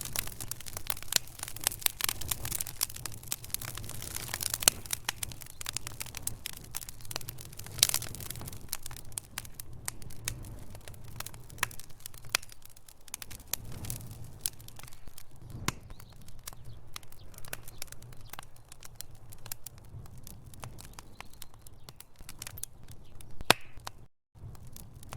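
Wood fire burning in a fireplace: logs crackling with many sharp pops and snaps over a steady low rumble, the pops thicker in the first half and sparser later. The sound cuts out for a moment near the end.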